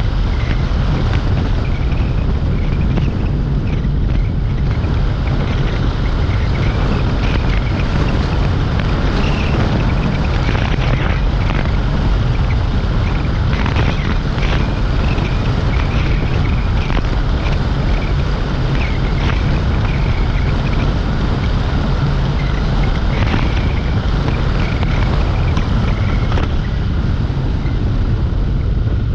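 Steady wind rumble on the microphone and road noise while riding a Dualtron Compact electric scooter, with faint short chirps scattered throughout.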